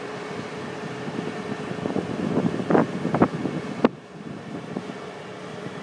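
Wirtgen cold milling machine running steadily, with wind buffeting the microphone. A few loud clattering knocks come about two to three seconds in, then a sharp click just before four seconds, after which the noise drops.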